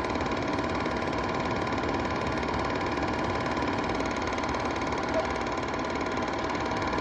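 A steady mechanical whirr with a fast, even rattle, like a small motor running, holding level throughout.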